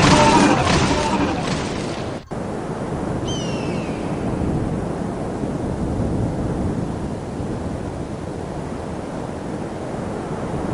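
Background music fading out, then a steady rushing noise like wind or surf, with one faint, short falling chirp about three seconds in.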